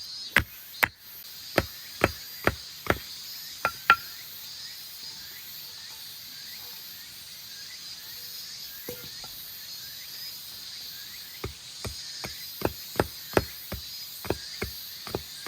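Wood being chopped with a blade: sharp strikes about two a second, in two runs with a pause between them.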